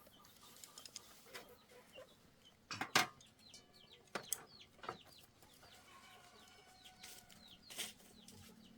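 Chickens clucking while chicks give short, high, falling peeps, with a few sharp knocks, the loudest about three seconds in.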